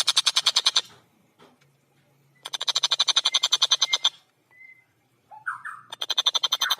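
Javan kingfisher (tengkek buto) calling in fast, rattling trills of rapid even pulses, about fifteen a second, in three bursts with short pauses between. A brief lower squeak comes just before the last burst.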